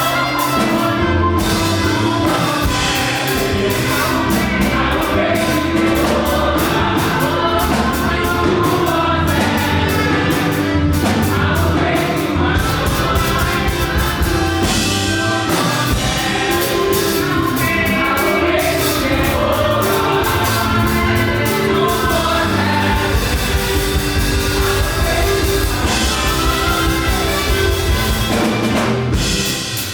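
Live fast gospel praise music: singers over a band with drums, at a steady driving beat.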